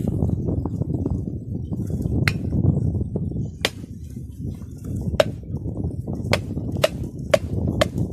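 A green coconut being chopped with a blade: seven sharp blows, the first few over a second apart, the last four about half a second apart. A steady low background noise runs under them.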